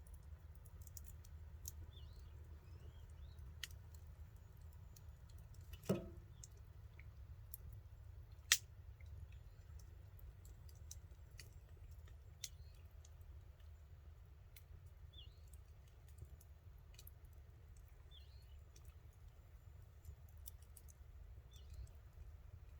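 Wood campfire crackling softly with scattered sharp pops, a louder knock about six seconds in and one loud pop a couple of seconds after it.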